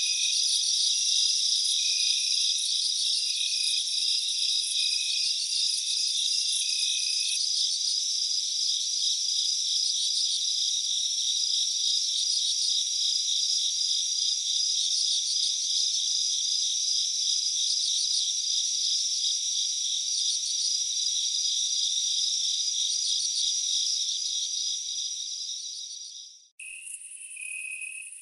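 Dense chorus of insects, crickets among them, with rapid pulsing trills and chirps layered together. It breaks off abruptly about twenty-six seconds in and a thinner chorus resumes right after. No rumble or blasts from the volcano are heard.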